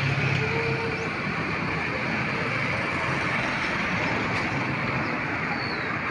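Steady noise of a vehicle travelling along a road: a continuous mix of engine hum and tyre and road noise, with no sudden events.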